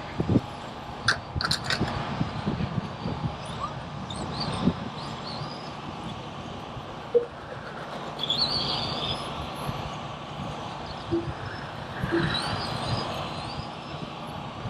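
Radio-controlled Euro Truck race trucks running laps on the track. Their motors whine up and down in pitch as they brake and accelerate, over a steady noise, with a few sharp clicks in the first couple of seconds.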